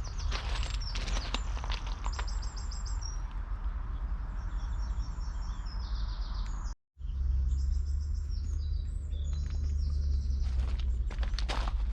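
Small birds singing repeated high trilling phrases over a steady low rumble, with a brief complete dropout about seven seconds in.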